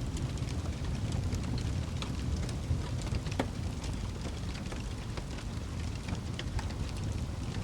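Wood fire burning in a fireplace: a steady low rumble of the flames with frequent small irregular crackles and pops, a few sharper snaps among them.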